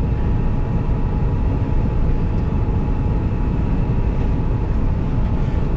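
Steady drone of a John Deere 9650 combine heard inside its cab while harvesting soybeans, the engine and threshing machinery running under load, with a faint steady whine over it.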